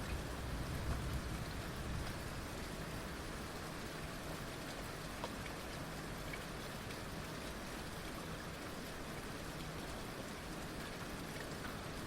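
Heavy rain falling steadily, a dense even hiss of drops, with a low rumble in the first second or two.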